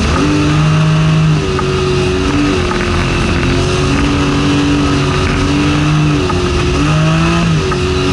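Toyota Supra's engine heard from inside the cabin while driving, running at held revs. Its pitch stays level for a second or two at a time, then steps down and back up several times.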